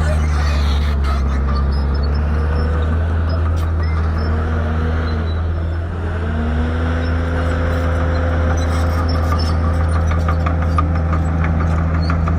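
Shantui bulldozer's diesel engine running steadily, its pitch dipping and climbing back about halfway through, with a fast light clatter in the second half.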